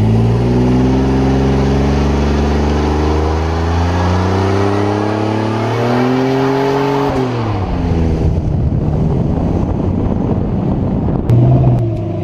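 2005 Ford Mustang 4.6-litre V8 exhaust revving: the revs are held and climb slowly for about seven seconds, then drop back to a lumpy idle, with a quick rev blip near the end.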